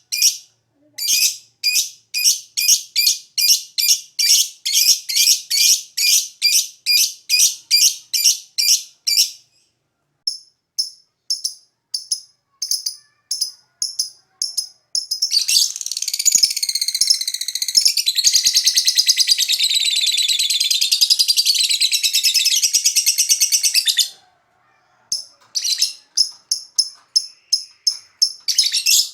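Lovebird calling: a run of sharp, evenly repeated chirps, about three a second, fading for a few seconds, then about fifteen seconds in a long unbroken rapid trill lasting some nine seconds, and chirps again near the end.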